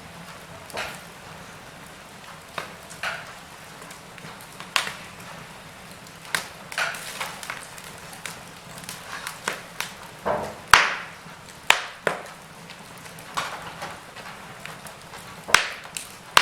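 Wood fire in a fireplace crackling, with irregular sharp pops over a low steady hiss. The loudest pops come about two-thirds of the way in and just before the end.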